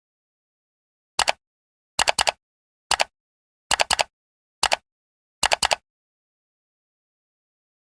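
A sound effect of short, sharp clicks in six quick groups of two or three, spread over about five seconds with silence between them.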